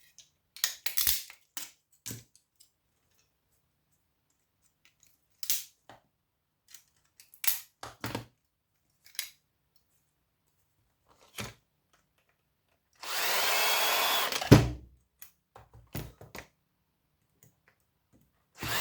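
Scattered light clicks and knocks of parts and tools handled on a circuit board, then a cordless drill running for about a second and a half about two-thirds of the way in, ending in a sharp knock as it works a component off a power-supply board.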